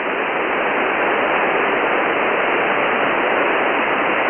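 Shortwave receiver hiss: steady band noise through a single-sideband receiver on the 10-metre amateur band, heard between transmissions with no signal on the frequency. It swells slightly at first, then holds steady.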